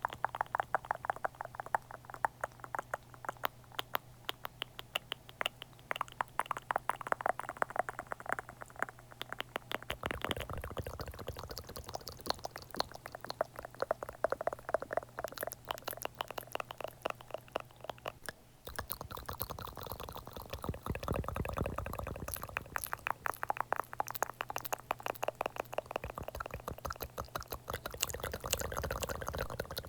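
Close-miked ASMR mouth sounds: rapid clicks and smacks, many a second, changing texture about ten seconds in and again just past halfway.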